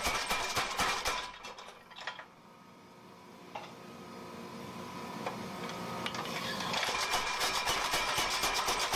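Home-built power hammer pounding hot steel bar in fast, even blows, several a second. The hammering stops about a second and a half in, with a few light knocks and a low hum in the pause, and starts again about seven seconds in.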